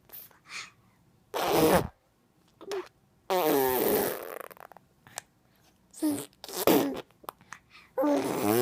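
A young child making vocal noises: a short noisy burst, then a longer voiced sound that falls in pitch, a couple of short bursts, and another voiced sound near the end.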